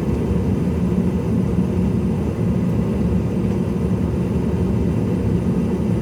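Steady low drone inside the cabin of a CRJ-700 regional jet sitting at the gate, with a faint steady hum under an even rush of air.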